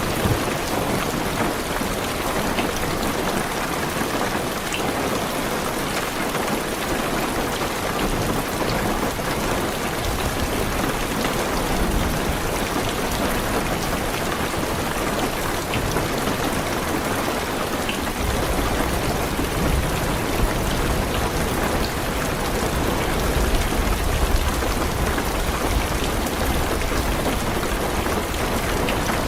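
Heavy rain drumming steadily on a car's roof and windows. A low rumble of thunder comes in about a third of the way through and grows stronger later on.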